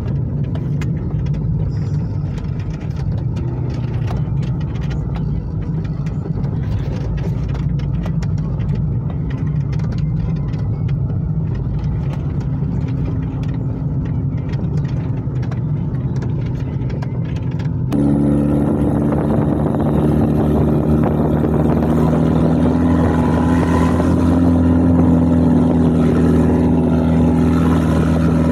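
Off-road SUV engine running steadily. About 18 seconds in the sound changes abruptly to a louder engine note held at a steady, higher pitch, as if working hard.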